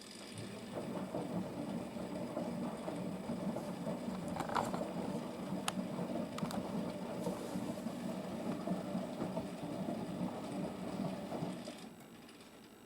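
Washing machine drum tumbling during a 95 °C wash: the drum starts turning about half a second in and stops near the end, with a few sharp clicks along the way.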